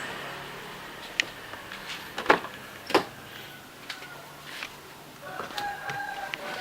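A car engine's sound dies away in the first half second, followed by a handful of sharp clicks and knocks, like handling noises, over a faint hiss.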